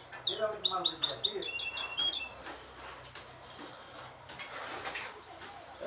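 Several goldfinch hybrids singing: a fast, dense run of twittering notes for about the first two seconds, then quieter with only a few faint scattered notes.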